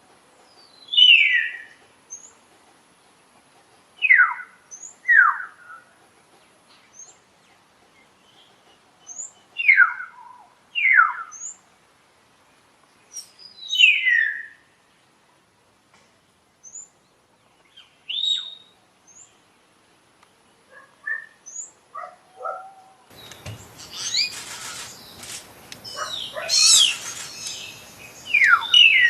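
Common hill myna calling: loud, sharp whistles that slide downward, single or in pairs a few seconds apart, with short faint high notes between them. About two-thirds of the way in, a noisier background comes in and the calls become quicker and overlap.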